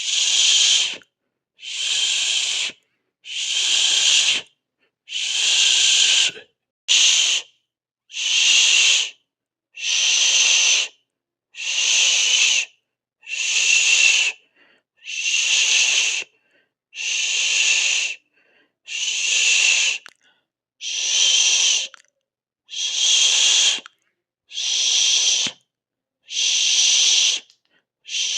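A person hissing through the teeth, a long 'sss' repeated about every two seconds with short silences between.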